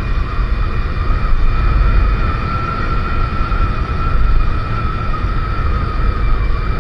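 Motorcycle riding at a steady speed: a steady engine whine holding nearly constant pitch over heavy wind rumble on the microphone.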